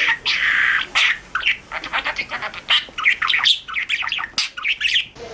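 Pet parrot squawking and chirping in a rapid run of short, harsh calls, with one longer call about half a second in. The calls stop shortly before the end.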